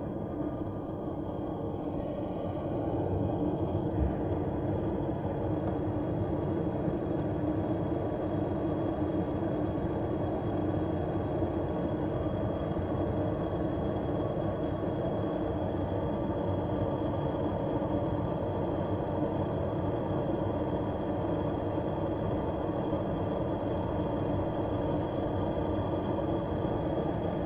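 A steady mechanical hum at a constant pitch, growing louder about two to three seconds in and then running evenly.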